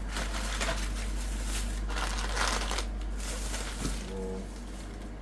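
Irregular rustling and crinkling noises that swell and fade, with a short pitched sound about four seconds in, over a steady low hum.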